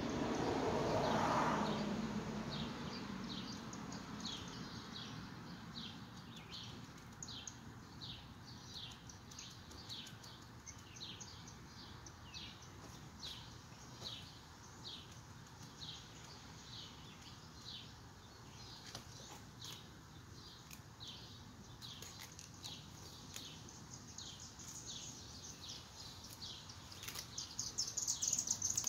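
A small bird chirping over and over, short high chirps about once or twice a second, with a louder, quicker burst of chirping near the end. Near the start there is a brief rustle of hands working in soil and weeds.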